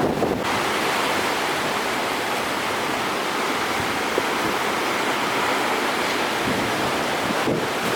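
Steady rushing noise of strong wind and rough sea, with wind on the microphone.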